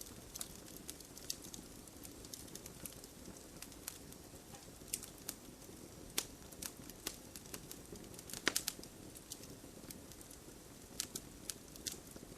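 Wood fire crackling: irregular sharp pops and snaps over a low steady rush of burning, with a cluster of louder pops about two-thirds of the way through.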